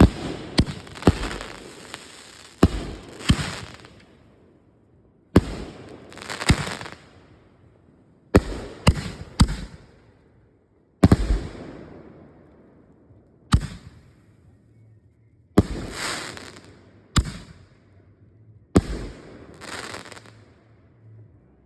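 Consumer firework mortar shells going off one after another from a fused rack: about fifteen loud bangs at uneven intervals, some in quick pairs and triplets, each trailing off in crackle and echo.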